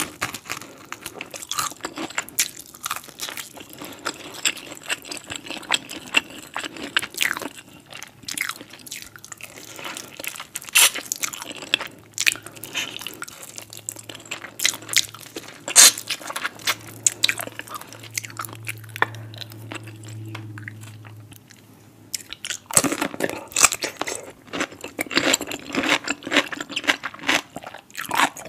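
Close-miked crunching and chewing of crispy battered fried chicken, with many sharp crisp crunches. The chewing turns softer for a stretch in the middle, then the loud crunching starts again near the end.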